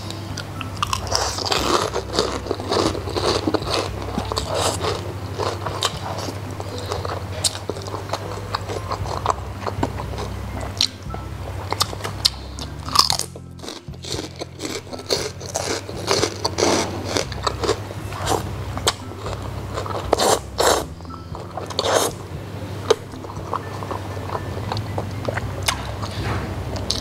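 Close-miked biting, crunching and chewing of crispy fried pork skin eaten with noodles: many sharp, irregular crunches, with a short lull about halfway.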